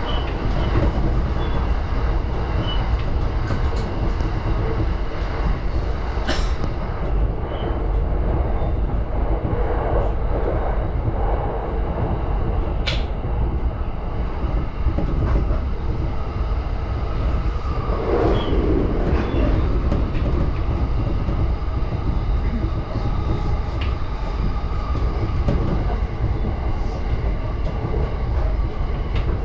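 JR Yamanote Line electric commuter train running between stations, heard from inside the carriage: a steady rumble of wheels on rail. Two sharp clicks come about six and thirteen seconds in.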